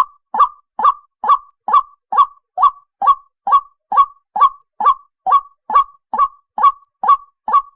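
White-breasted waterhen calling: one short, identical note repeated over and over at an even pace, a little over two notes a second.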